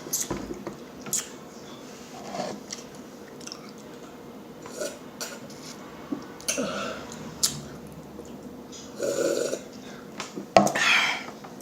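Close-up mouth sounds of eating and drinking: scattered smacks and clicks, with a burp. A sharp click and a short hiss come near the end.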